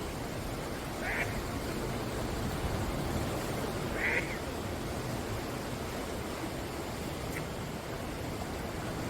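Sea surf washing steadily on the shore, with two short bird calls, one about a second in and another about four seconds in.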